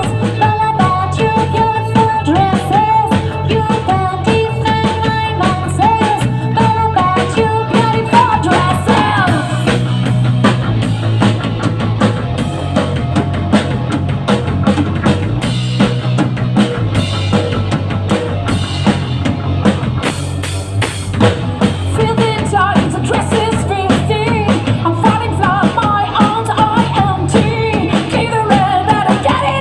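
Live rock band playing, driven by a full drum kit and bass, with a wavering melodic lead line over the first few seconds that returns in the last part.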